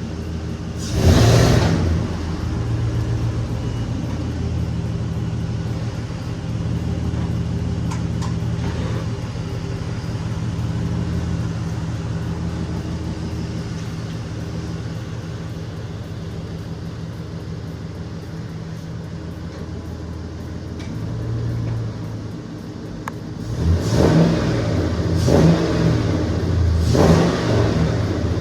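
LS-swapped box Chevy V8 idling steadily through its freshly shop-built exhaust, blipped once about a second in and revved three times in quick succession near the end.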